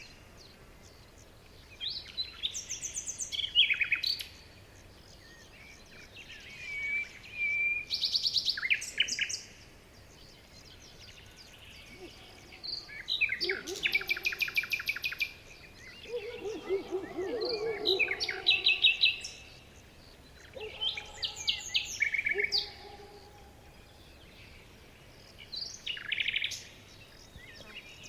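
Several songbirds singing and chirping in short phrases with pauses between them: fast, high trills and chirps. Lower-pitched warbling calls come in midway.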